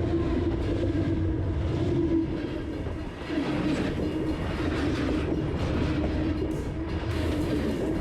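Train running on the rails: a steady rumble with rail noise and a low droning tone that holds throughout.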